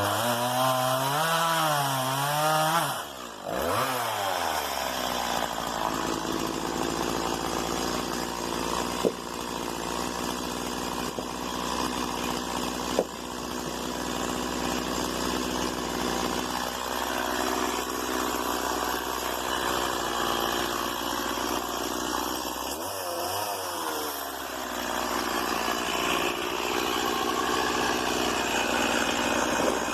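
Stihl MS 170 two-stroke chainsaw running, its revs wavering up and down, then falling away briefly about three seconds in. It then runs steadily cutting through wood for most of the time, with another short drop and rise in revs a little after twenty seconds. Two sharp knocks stand out near the ninth and thirteenth seconds.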